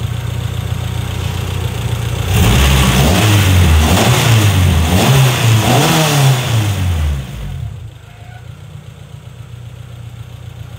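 B20VTEC four-cylinder engine idling, then revved in several quick blips over a few seconds before dropping back to a quieter idle. The owner reports it running smoothly with no abnormal ticking after its valve lash adjustment.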